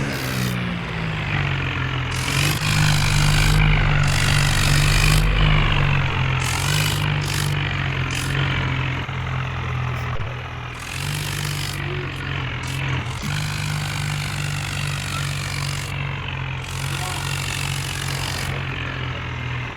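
Farmtrac 60 tractor's diesel engine working hard under load while pulling. It grows louder a few seconds in, eases about halfway, then runs on steadily.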